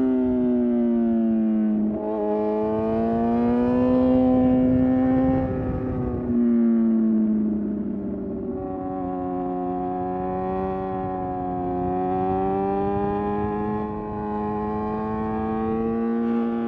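Suzuki GSX-R750 inline-four engine running under way with steady throttle, its pitch rising and falling gently; it drops from about six seconds in, then holds and slowly climbs near the end. A low rush of wind and road noise runs underneath.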